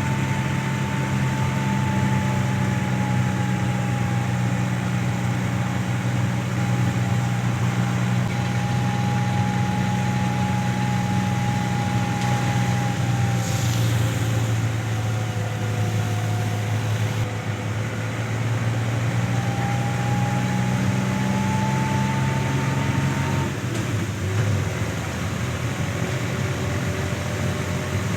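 A car driving, with its engine humming steadily under road noise and a faint tone that drifts slowly in pitch.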